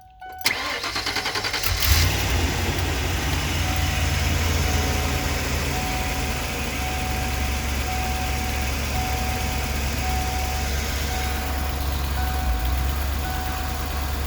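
1994 Ford E350's 351 (5.8 L) V8 cold start: it cranks for about a second and a half, catches and settles into a slightly uneven idle with a misfire that shows up most when the engine is dead cold. A faint chime beeps repeatedly over the idle.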